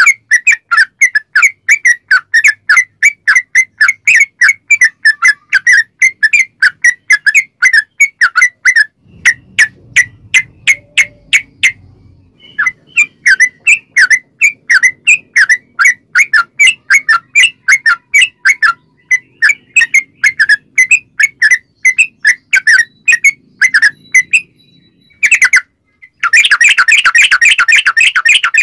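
Yellow-vented bulbul (trucukan) calling in a long, rapid series of short, sharp chattering notes, about four a second. A short break near the end is followed by a dense burst of chatter.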